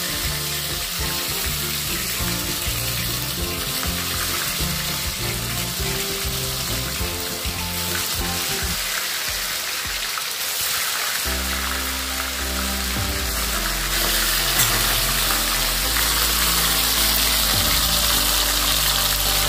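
Steamed rui fish dumplings (muitha) frying in hot oil, a steady sizzle that grows louder about two-thirds through, under background music.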